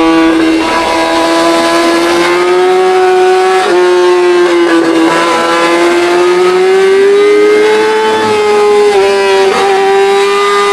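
Straight-piped Yamaha R6 inline-four engine running at high revs, a steady high-pitched engine note that slowly rises and falls, dipping briefly in pitch several times.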